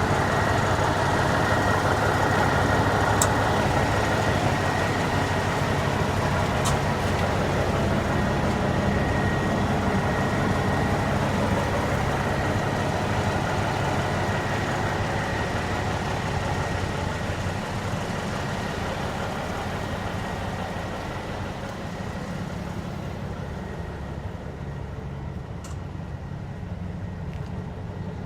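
International S 2200 truck's 400 Cummins diesel engine idling steadily, growing gradually fainter over the second half.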